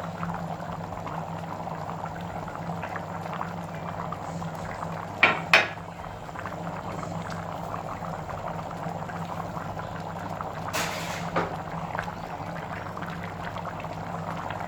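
Mutton biryani water and rice bubbling at the boil in an open pressure cooker. Two sharp clinks of a utensil on the pot come about five seconds in, and a short scrape near eleven seconds.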